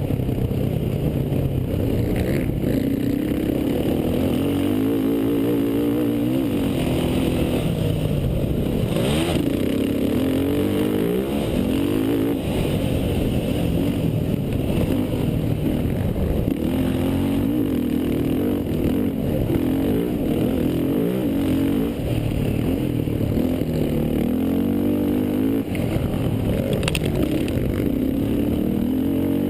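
Several racing quad engines revving up and down, their pitches rising and falling and overlapping as they change speed.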